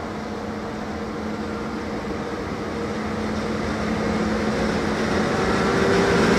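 An E402A electric locomotive hauling an InterCity train approaches, with the running noise of its wheels on the rails and a steady hum. The whole sound grows steadily louder as the train nears.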